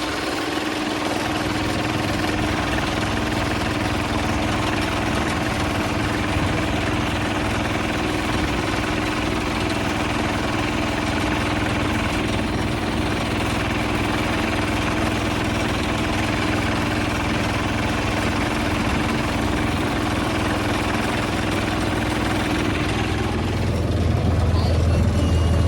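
Hand tractor engine running steadily, then louder and deeper about 23 seconds in.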